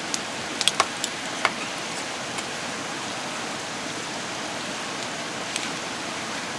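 Steady hiss of falling or running water, with a few light clicks in the first second and a half.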